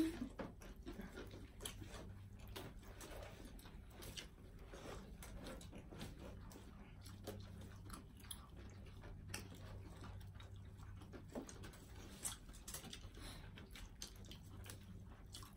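Several people eating fried chicken, fries and rice with their hands: faint chewing and crunching with scattered small clicks and taps. A faint steady low hum runs underneath.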